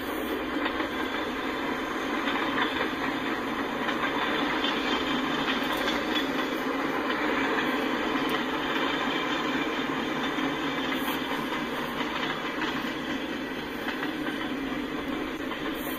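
Freight cars of a long freight train rolling steadily past, steel wheels running on the rails.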